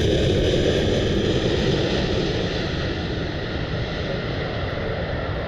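Jet airliner engine noise: a steady rumble with a faint high whine, slowly fading as the aircraft moves away.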